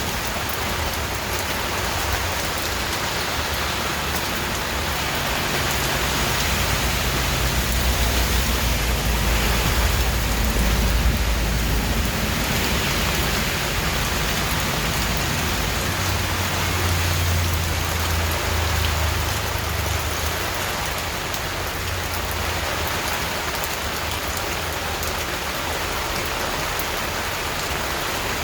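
Steady rain falling, an even hiss of drops on surfaces. A low rumble of thunder swells under it twice, from about five to twelve seconds in and again around seventeen to twenty seconds.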